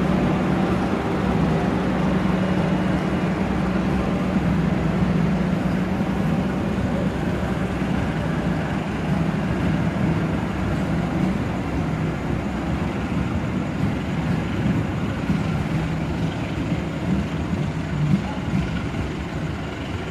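Diesel passenger train at a station platform: a steady low engine hum over a broad rumble of running noise, the hum easing off near the end.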